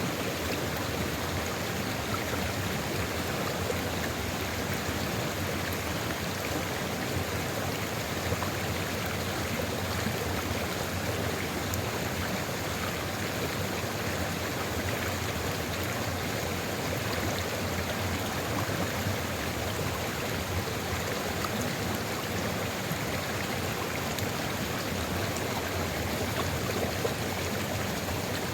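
A stream of water flowing steadily over rocks, a continuous even rushing with fine splashing.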